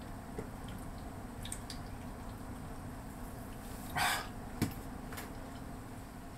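Quiet eating sounds: someone chewing a mouthful of seared chicken breast, with a few faint small clicks and a short breathy noise about four seconds in, over a steady low background hum.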